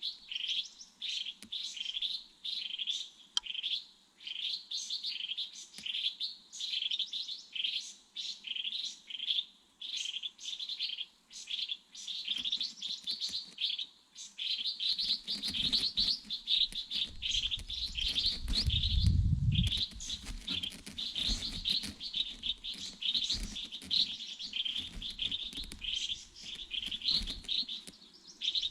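Small bird chirping over and over in short, high calls, about two a second, without a break. A low rumble rises under the calls about halfway through and fades a few seconds later.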